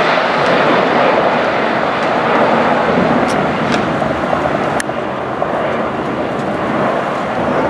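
Jet airliner engine noise, a loud steady rush that eases slightly about five seconds in, with a few faint sharp clicks in the middle.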